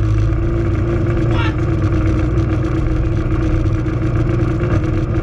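Naturally aspirated Honda drag-race engine running steadily at low revs, heard inside the car's stripped cabin.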